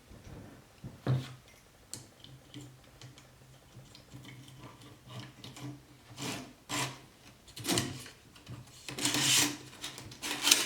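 Wood and a tool being handled: a series of rubbing and scraping swishes that get louder in the second half, over a faint low steady hum.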